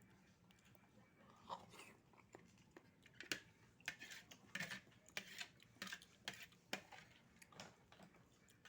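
A person eating oysters close to the microphone: a run of short, irregular wet chewing smacks and clicks, starting about a second and a half in and busiest in the middle.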